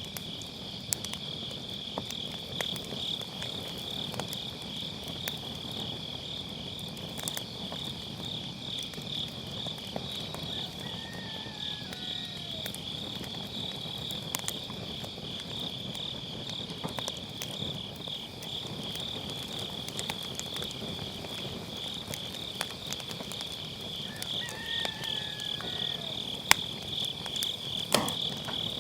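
Crickets trilling in a steady, finely pulsing high chorus over a wood fire crackling in a fire pit, with scattered sharp pops; a couple of louder pops near the end.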